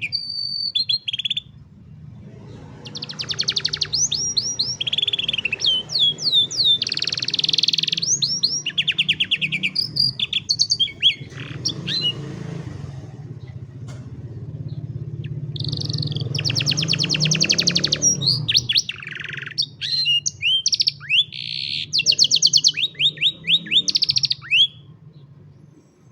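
Domestic canary singing a long, high-pitched song of rapid trills and rolling tours mixed with short gliding whistles, with a brief lull about halfway through. A low steady hum runs underneath.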